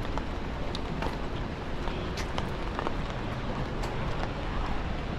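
Rainy city street ambience: a steady hiss of rain and passing traffic, with scattered light ticks.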